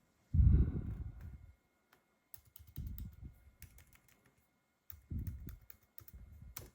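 Laptop keyboard keys clicking in irregular strings, with several dull thumps among them, the loudest about half a second in.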